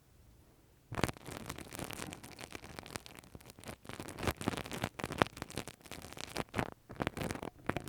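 Close-miked ear-cleaning ASMR sounds: a tool or fingers scratching and rubbing against the microphone's ear, a dense crackling with many sharp clicks that starts about a second in.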